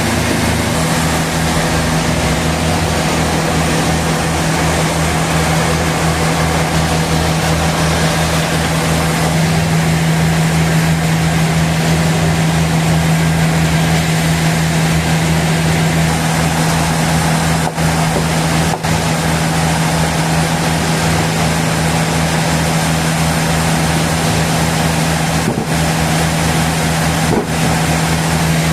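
Sawmill machinery running steadily: a constant engine-like hum under a loud noisy whir, with a few very brief dips in level.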